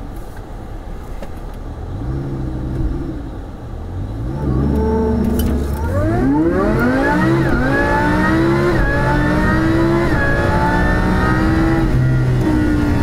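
Supercharged Lamborghini Huracán V10, heard from inside the cabin, at low revs at first, then going to full throttle about four seconds in. The engine note climbs steeply through the gears, with three quick upshifts of the dual-clutch gearbox, each one dropping the pitch, and then holds high near the end.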